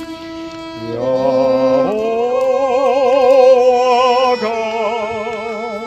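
Violin playing a slow worship-song melody, long held notes with wide vibrato, beginning about a second in; voices singing join near the end.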